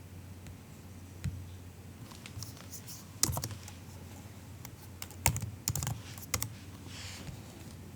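Soft typing on a MacBook keyboard: scattered keystrokes in two short flurries with pauses between them, over a low steady background hum.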